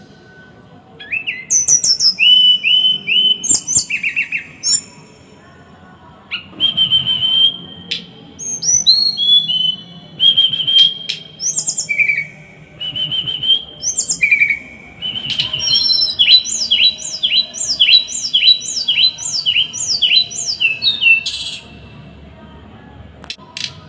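A small songbird singing sharp, high whistled notes and steep down-slurred 'tembakan' (shot) phrases, broken by brief pauses. Near the end comes a fast run of about two repeated down-slurred notes a second, which then stops.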